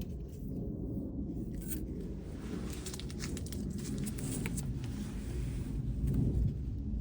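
Protective paper being peeled off an acrylic (PMMA) sheet, with a stretch of crackling and tearing in the middle, over a low steady rumble.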